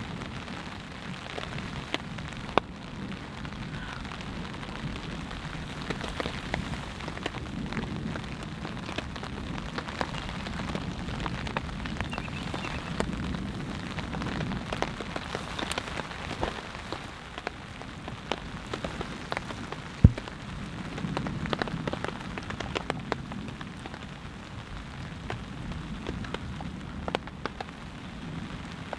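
Light rain falling on a tarp overhead: a steady hiss with many separate drop ticks on the fabric. There is one sharp knock about twenty seconds in.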